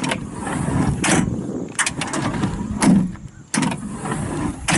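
Cab door of a Kubota SVL95-2S track loader being worked open and shut: a series of sharp latch clicks and knocks with rattling and handling noise between them.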